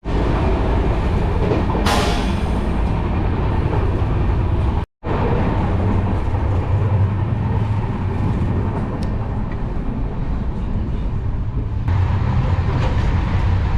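Train running on the rails: a steady heavy rumble with a brief break about five seconds in.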